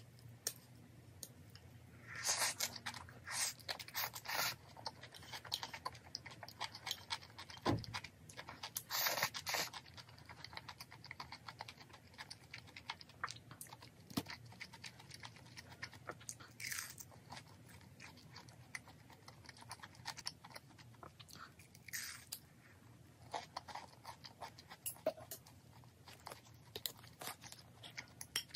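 Close-miked chewing of kimchi and cream pasta: wet mouth sounds and crunchy bites that come in several short clusters, with light clicks of chopsticks against a ceramic bowl. A single dull thump comes about eight seconds in.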